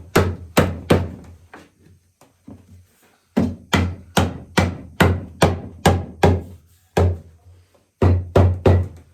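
Repeated hammer blows on a walnut chair part, knocking it into place in runs of sharp knocks about three a second, with short pauses between the runs.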